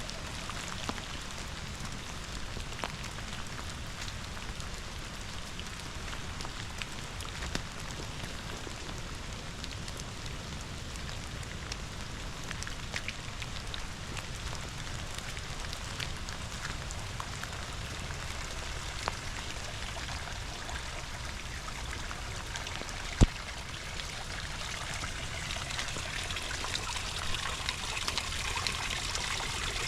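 Rain falling with a river running, scattered drops ticking close by. A single sharp tap about three quarters of the way through is the loudest moment, and the rushing water grows louder near the end.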